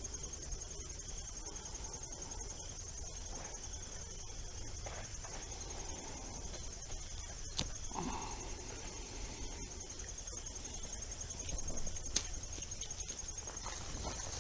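Crickets chirring: a steady, rapidly pulsing high trill that never stops, with a few faint clicks over it.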